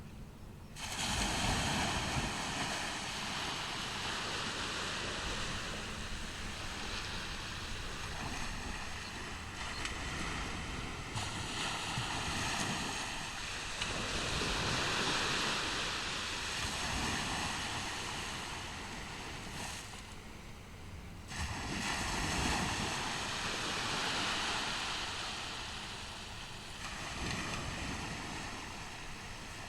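Ocean surf breaking and washing on a beach: a steady roar that swells and ebbs every several seconds.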